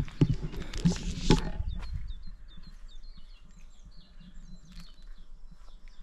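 A burst of close rustling and handling noise for the first second and a half, then a small songbird chirping, short high notes repeated over and over.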